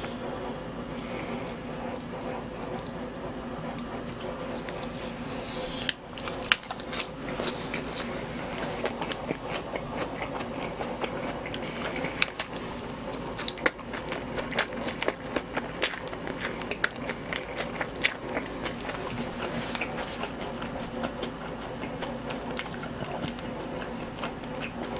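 Close-miked chewing of jokbal (braised pig's trotters) and leafy wraps: many small wet mouth clicks and smacks, starting about six seconds in, over a steady electrical hum.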